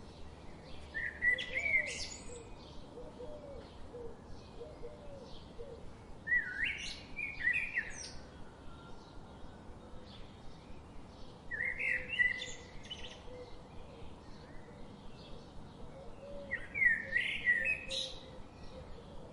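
Songbird singing a short, loud phrase about every five seconds, four times, over a steady background of faint, rapid chirping from other birds.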